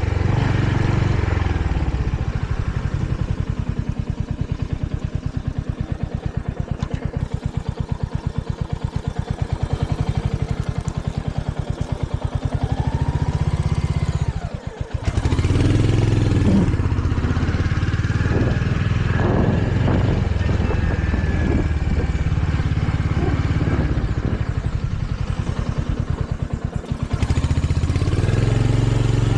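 Royal Enfield Hunter 350's single-cylinder engine running under way, its firing pulses steady and even at first. About halfway the sound drops briefly as the throttle closes, then the engine picks up and pulls harder with more wind and road noise. It eases off again for a moment near the end.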